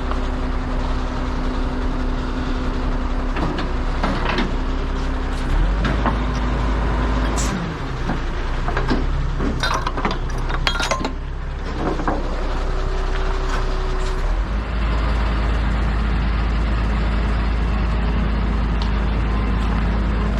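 Heavy truck engine running with a deep rumble, its pitch shifting several times, with scattered clicks and knocks in the middle.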